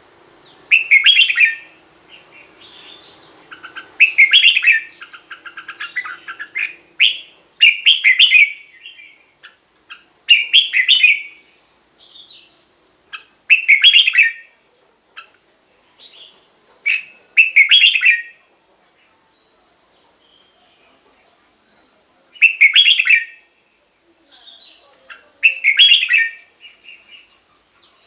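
Red-whiskered bulbul singing: short, loud warbled phrases of about a second each, repeated every three to four seconds, with a longer pause about two-thirds of the way through.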